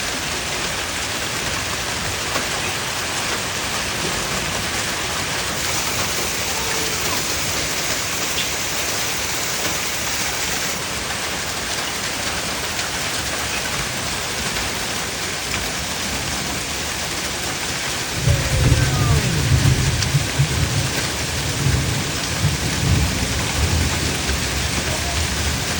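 Hail and heavy rain pelting down in a steady dense hiss. About two-thirds of the way through, a deep, uneven rumble comes in and keeps going.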